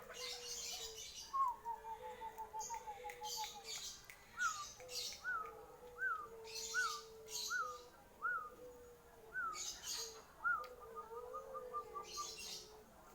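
Bangkok-type zebra doves (perkutut) cooing in soft, steady notes, overlaid by a run of short falling whistled notes about every 0.7 s and a quick trill. Several short hissy bursts from other birds are mixed in.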